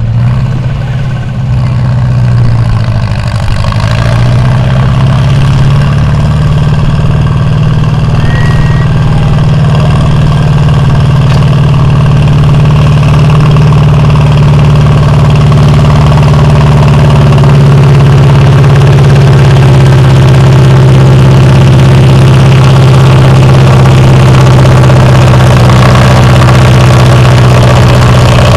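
Cockshutt 30 tractor's engine running loud and steady, pulling the sled in a tractor pull; the pitch rises a little over the first few seconds, then holds.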